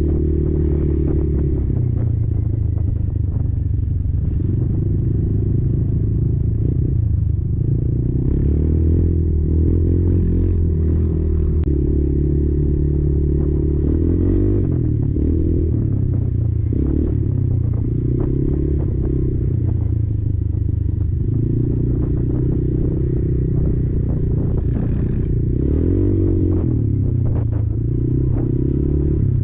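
Kymco Maxxer 300 quad's single-cylinder engine running under changing throttle, its note rising and falling every few seconds, with frequent short clattering knocks and rattles throughout.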